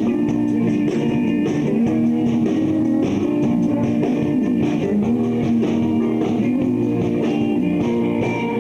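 Live rock band playing an instrumental passage: electric guitar to the fore over bass and drums, with a steady beat.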